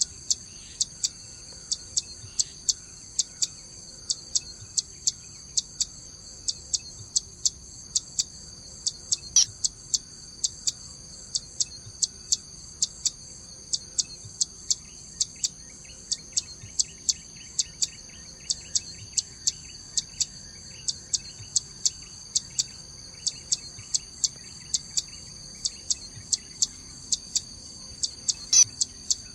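Zitting cisticola giving its sharp, high 'zit' notes over and over, about two a second, over the steady high drone of insects. Two louder sharp notes come about nine seconds in and near the end.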